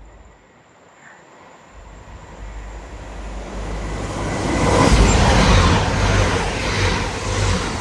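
Grand Central Class 180 Adelante diesel multiple unit passing through the station without stopping: a deep rumble and wheel noise that grows from about two seconds in, is loudest about five seconds in and stays loud as the train goes by.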